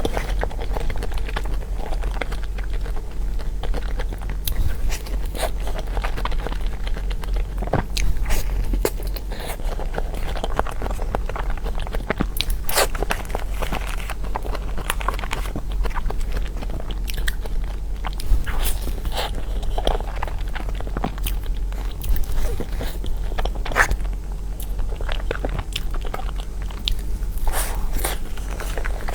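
A person biting into and chewing soft cake close to the microphone, with many small wet mouth clicks and smacks. A steady low hum runs underneath.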